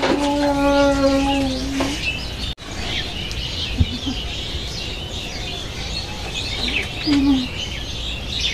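Small birds chirping and twittering in a rapid scatter of short high calls over a steady background. In the first two seconds a long held tone with overtones sounds and then falls off before a sudden break.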